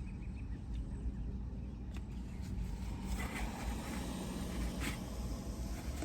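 Steady low rumble of a car engine running, with a few faint rustles.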